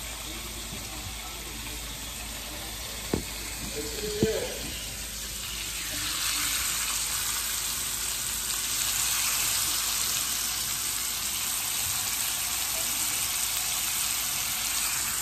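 Lamb chops searing in a pan over medium heat, a steady sizzle. There is a sharp click about three seconds in, and the hiss grows louder and fuller from about six seconds in.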